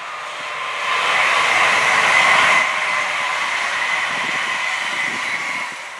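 Electric multiple-unit passenger train passing: steady wheel-on-rail rush with a whine, swelling over the first second or so, loudest about two seconds in, then dropping away near the end as the train draws off.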